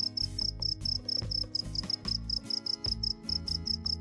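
Insect sound effect of cricket-like chirping: a fast, even series of short high chirps, about seven a second, over background music.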